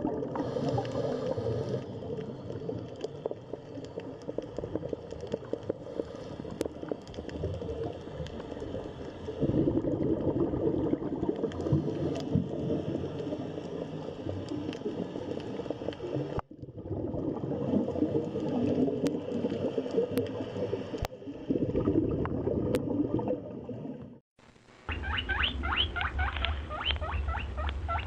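Small animals squeaking and scrabbling in a run of short clips, ending with quick, high-pitched squeaks in rapid succession.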